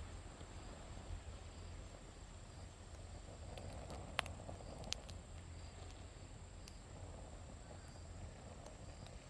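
Insects chirping in a steady high trill, with a few sharp clicks about four and five seconds in.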